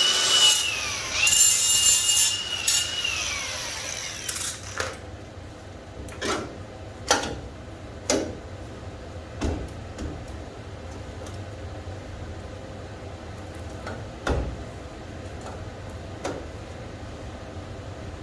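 A high-speed power tool running with a high whine in two short bursts, winding down about three seconds in, followed by scattered single knocks and clunks.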